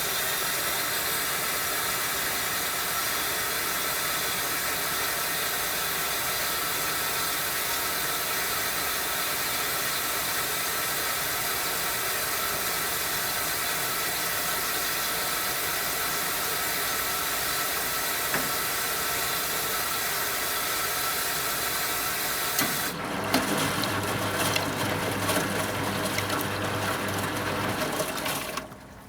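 Water running into a 1974 Zoppas Superautomatic 242 washing machine, a steady hissing rush. About 23 seconds in it gives way to a louder, rougher clattering sound with a low hum, which stops shortly before the end.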